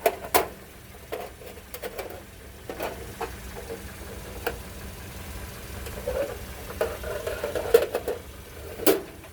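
Handling noise: irregular clicks, knocks and light scraping over a low rumble, with the strongest knock near the end.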